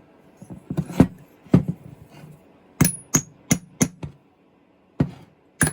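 Hammer knocking on a chainsaw's engine housing, about eight sharp, irregularly spaced blows with a quick run of four in the middle.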